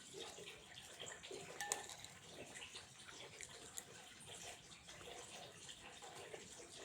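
Water running and trickling, faint and steady, with small splashes and drips through it. There is one sharp plink about one and a half seconds in.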